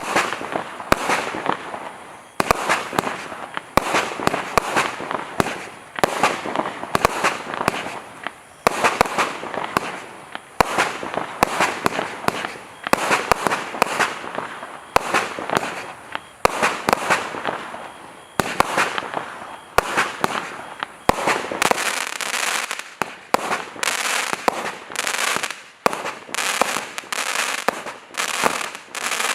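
Celtic Fireworks 'Sunset Lights' firework going off: a continuous run of sharp bangs, roughly two a second, each trailing into a short noisy tail.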